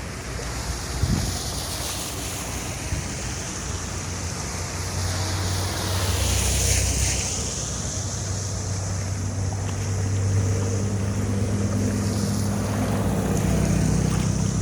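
An engine running steadily under a loud rushing hiss; the engine's hum grows stronger about five seconds in.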